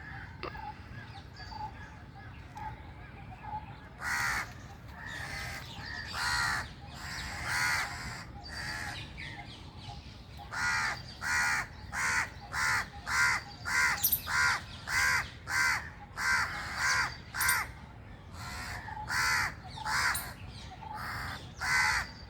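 Corvid cawing in a long series of harsh calls. The calls are scattered from about four seconds in, then come at about two a second through the middle, with a few more near the end.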